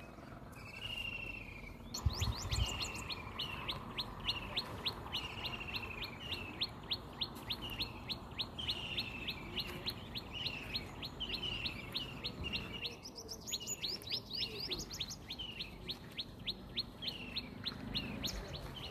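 Small birds chirping and twittering in a rapid, continuous run of short chirps mixed with falling whistled notes, beginning about two seconds in.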